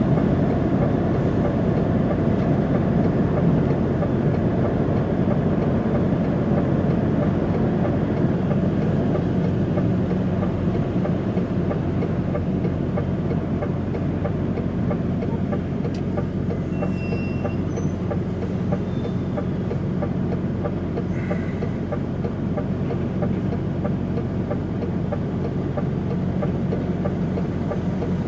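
Steady low drone of a DAF XF105.460 truck's six-cylinder diesel engine running, heard from inside the cab.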